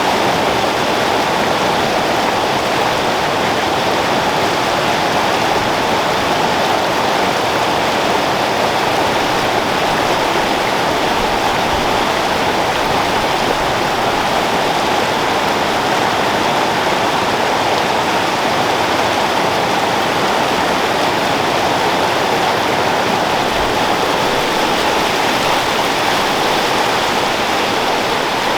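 Creek water flowing and rushing over rocks in a steady, unbroken wash.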